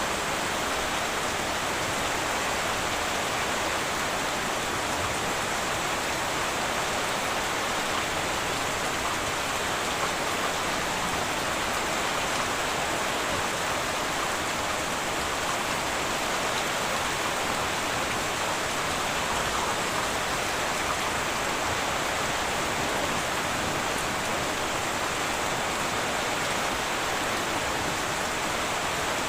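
Heavy rain falling steadily on a tin roof, an even, continuous hiss with no thunder.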